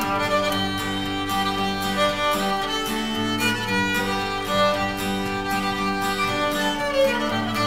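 Band playing an instrumental break between the sung verses of a gospel song: a held, sustained lead melody over a steady strummed beat.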